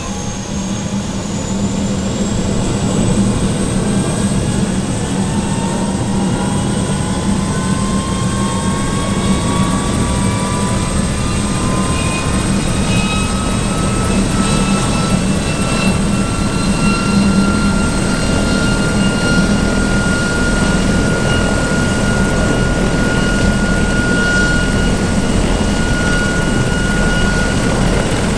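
Bell 412EP helicopter's turbine engines whining as they spool up, the whine rising in pitch for about fifteen seconds and then holding steady over a constant low hum.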